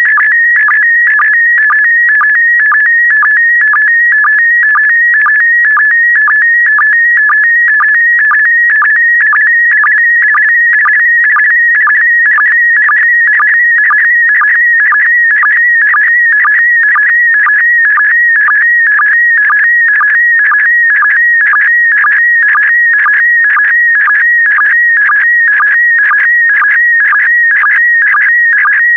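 PD120 slow-scan TV (SSTV) image signal: a high, rapidly warbling tone carrying picture lines, broken by a short lower sync beep about twice a second.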